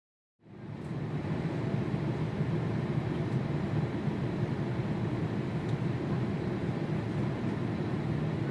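Jet airliner engine noise: a steady rumble that fades in about half a second in and holds evenly.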